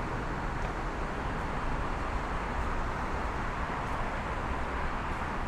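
Steady rushing background noise, even throughout, with no distinct knocks or calls standing out.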